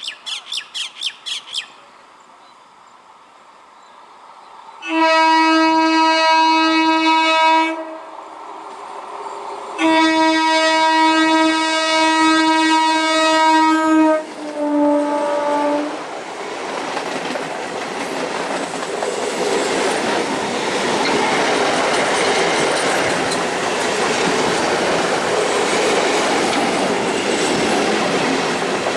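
An Indian Railways train horn sounds two long blasts and then a short, slightly lower one. Then the train passes with a loud, building rumble and the clickety-clack of its wheels over the rail joints. A bird squawks rapidly in the first second or so.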